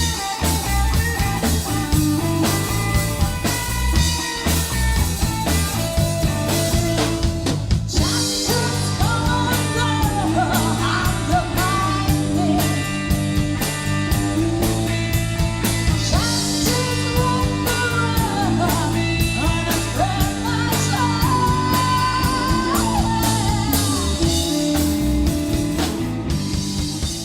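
Rock-blues band playing electric guitar, bass guitar and drum kit, with a woman singing over it from about eight seconds in. The music begins to fade near the end.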